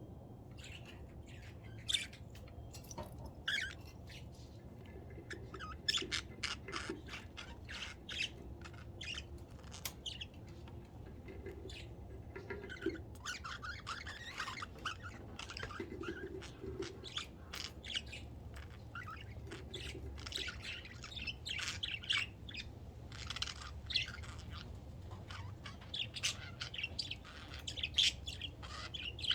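Budgerigars chirping and chattering, many short quick calls throughout with bursts of warbling, over a steady low hum.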